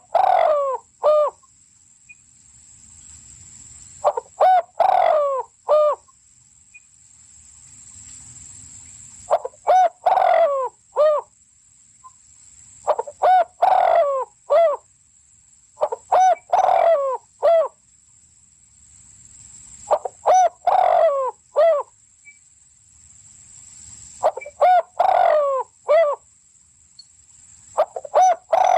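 A bird calling in short bouts of three to five quick arched notes, the bouts repeating at a regular pace about every three to four seconds, over a faint steady high whine.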